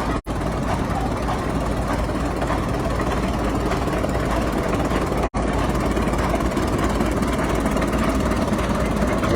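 Caterpillar 60 gasoline crawler tractor's engine running steadily as it goes by. The sound drops out for an instant twice.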